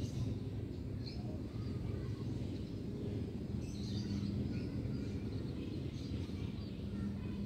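Steady low background rumble with a few faint bird chirps, one about a second in and a small cluster around four seconds in.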